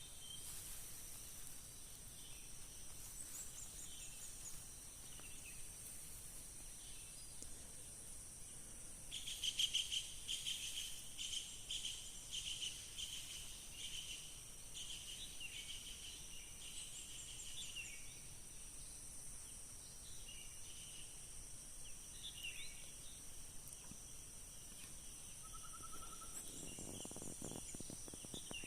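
Steady high trilling of forest insects such as crickets, with a burst of rapid bird chirps about a third of the way in and scattered chirps after it.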